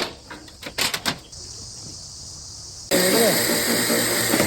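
A few sharp knocks in the first second or so, then a loud, steady hiss starts suddenly about three seconds in, with a voice over it.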